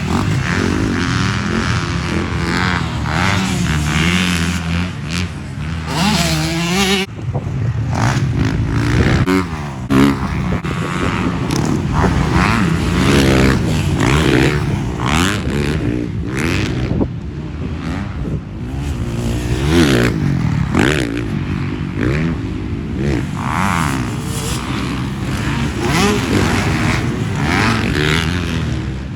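Several motocross dirt bike engines racing, revving up and falling off over and over, with many overlapping rising and falling engine notes.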